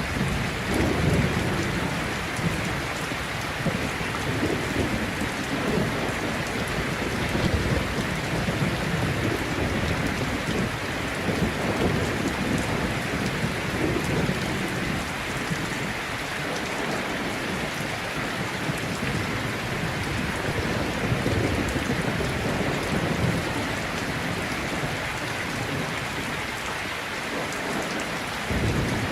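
Heavy rain falling steadily in a thunderstorm, with low rolling thunder rumbles swelling and fading every few seconds.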